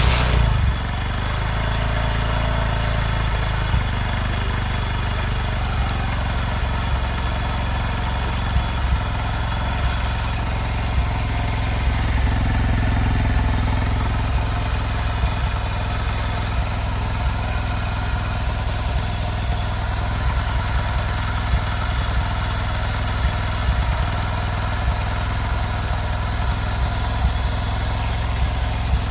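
Bajaj CT 100 motorcycle's single-cylinder four-stroke engine idling steadily, heard through its exhaust silencer.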